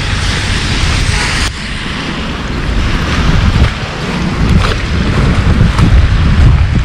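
Storm wind buffeting the microphone: a loud, gusting low rumble with rushing noise above it that drops off suddenly about a second and a half in, then builds again in gusts.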